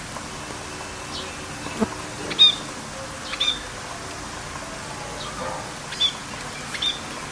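A bird calling over a steady hiss of rain. It gives several short, bright calls, each a quick downward sweep ending in a brief held note, with one sharp tick between them.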